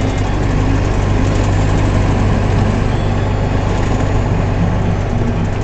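Semi truck's engine running with steady road noise, a constant low hum under a wash of tyre and wind noise.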